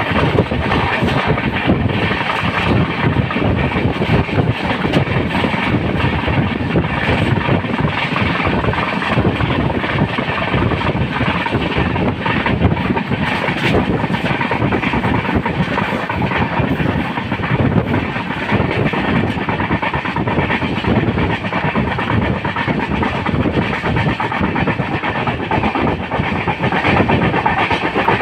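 Jan Shatabdi Express passenger train running along the track: a steady, unbroken noise of the wheels and coaches on the rails.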